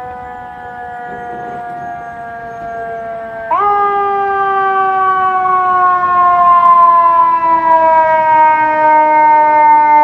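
Fire truck siren sounding a long wail that slowly falls in pitch. About three and a half seconds in it jumps back up in pitch and grows much louder, then starts falling slowly again.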